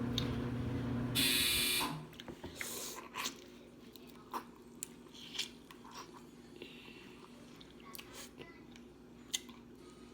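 Clothes dryer humming, then its end-of-cycle buzzer sounds for about half a second just over a second in and the hum stops. After that, scattered cracks and chewing sounds of snow crab being eaten.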